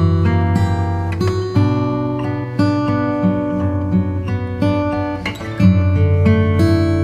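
Background music: acoustic guitar playing strummed and plucked chords, with a new chord or note sounding roughly every half second to second.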